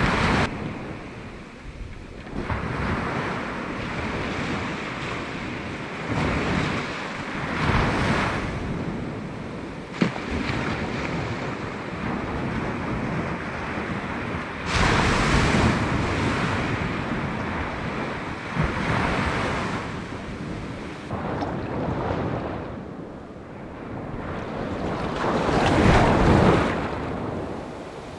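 Sea waves breaking on the beach, the surf swelling and fading every few seconds, with wind buffeting the microphone. A single sharp click sounds about ten seconds in.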